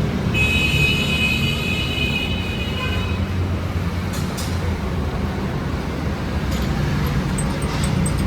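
A motor running with a steady low rumble. A high whine sounds over it for about the first three seconds, and a few sharp clicks come about four seconds in and again near the end.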